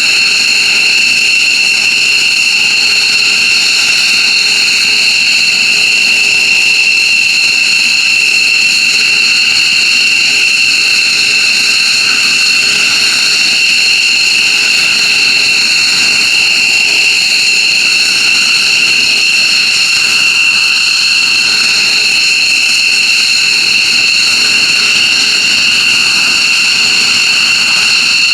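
F-15J Eagle jet engines running steadily with a loud, unchanging high-pitched whine.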